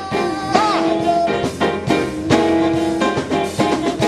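Live band playing an instrumental funk groove with no singing, with drum hits throughout and sustained, bending instrument notes.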